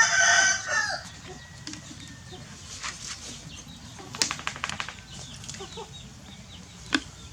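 A single loud, high-pitched animal call lasting about a second at the start, followed by scattered light clicks and a quick run of clicks about four seconds in.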